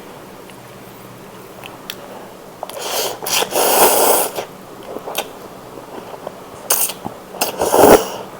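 Instant noodles and broth slurped loudly: one long slurp about three seconds in and shorter ones near the end, with a few small clicks in the quieter first seconds.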